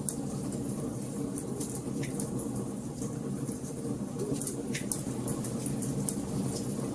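Wood fire burning in a fireplace: a steady low rush of burning logs, with frequent small sharp crackles and pops.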